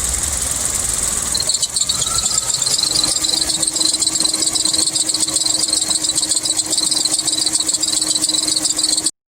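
Kia Kappa engine's drive belt squealing as it slips on the solid alternator pulley: a loud, shrill, fluttering squeal over the engine, with a steady lower hum joining about three seconds in, cutting off suddenly near the end. It is the well-known alternator pulley fault of these engines, which belt tightening does not cure and an overrunning alternator pulley fixes.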